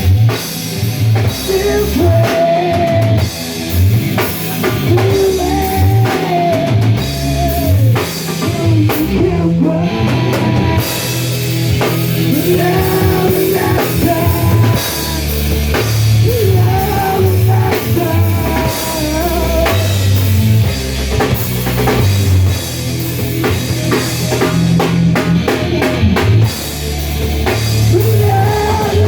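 Rock music with a steady drum-kit beat, guitar and a sung melody on top.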